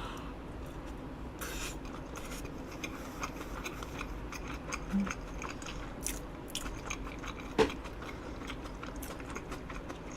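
Close-up chewing and mouth sounds of someone eating soft grilled eel over rice, with many small wet clicks. One sharper click comes about seven and a half seconds in.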